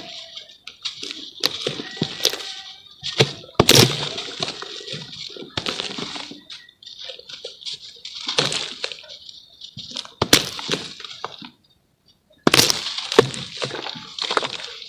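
Lumps of charcoal being crumbled and broken apart, in a dense run of crisp cracks and crumbling crackle, which stops for about a second two-thirds of the way through and then starts again.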